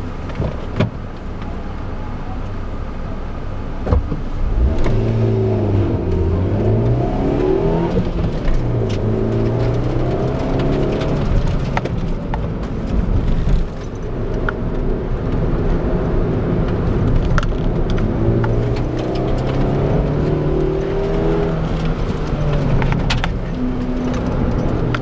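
Car engine pulling hard from about four seconds in, then revving up and down over and over as it accelerates, lifts and changes gear through a cone slalom, heard from inside the car. Scattered sharp clicks and rattles come through over it.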